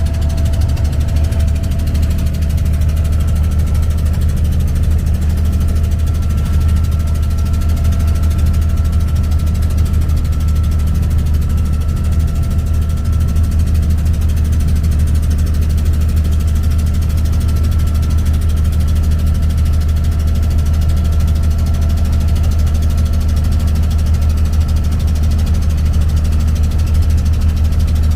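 An abra's inboard diesel engine running steadily under way: a loud, even low drone with a faint thin whine above it.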